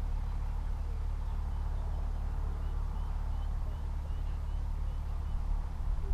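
Narrowboat's diesel engine running steadily, a low drone, with a faint run of short high chirps about midway.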